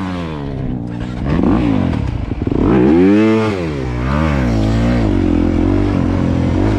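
Dirt bike engine revving up and down repeatedly in a series of rises and falls. The bike won't hold an idle and only keeps running under throttle.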